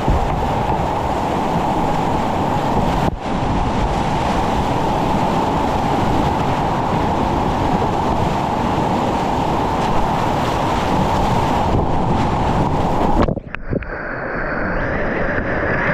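Steady rushing roar of whitewater at a river wave, heard close up. About thirteen seconds in it cuts out abruptly, then comes back quieter and thinner.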